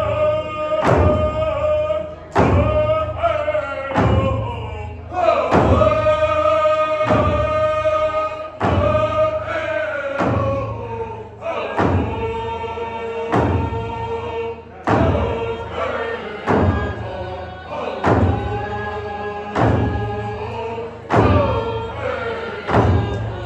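A group singing a traditional song in unison over a steady drum beat of a little more than one stroke a second, the voices holding long notes.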